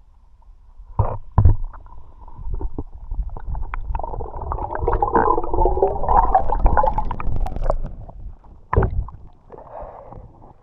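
Muffled water gurgling and rumbling that swells through the middle, with a few sharp knocks about a second in and again near the end.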